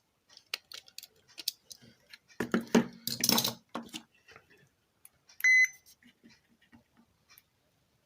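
Short, single electronic beep of a digital multimeter about five and a half seconds in, during a resistor check on an amplifier board. Around it are scattered small clicks and a louder burst of rustling handling noise from the probes and board.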